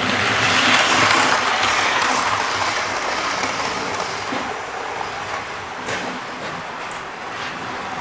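OO-gauge model train running along the track, a steady rumble of motor and wheels that swells in the first two seconds as it passes close, then slowly fades.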